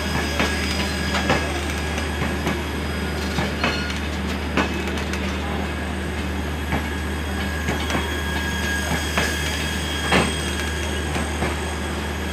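LHB passenger coaches rolling slowly past along the platform: a steady rumble with irregular sharp wheel clacks over the rail joints every second or two, and a thin wheel squeal at times.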